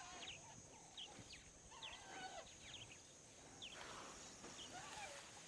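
Faint wild ambience: scattered short bird chirps over a steady high hiss.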